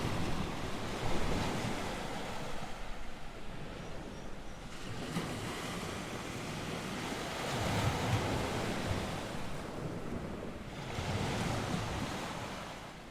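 North Sea surf, waves breaking and washing in, swelling and easing every few seconds, with wind buffeting the microphone.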